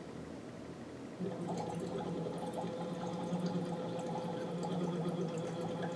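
A voice held on one steady hum through a Lax Vox tube into water, with bubbling under it, starting about a second in. The bubbling and the voice begin together: a balanced glottal attack.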